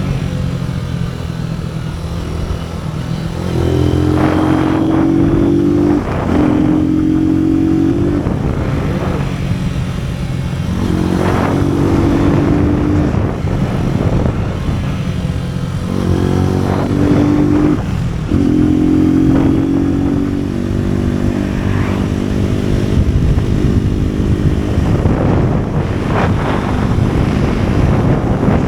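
AKT NKD 125 motorcycle's single-cylinder four-stroke engine running while riding. The engine note climbs several times, with short breaks between, like accelerating through the gears.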